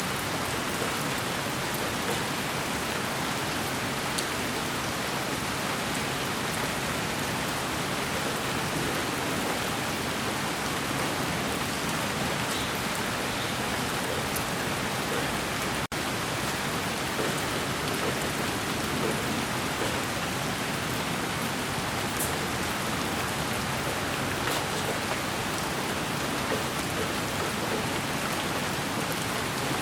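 Steady white noise with the sound of falling rain: an even hiss across low and high pitches, with faint scattered drop-like ticks. It cuts out for an instant about sixteen seconds in.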